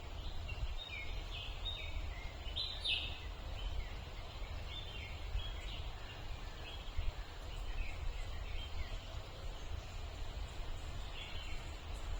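Birds chirping in many short, scattered notes over a steady low rumble.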